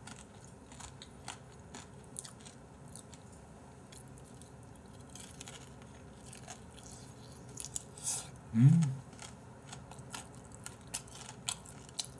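Close-up biting and chewing of crispy fried chicken, with small crunches and mouth clicks. About two-thirds of the way through comes one short hummed vocal sound, the loudest moment.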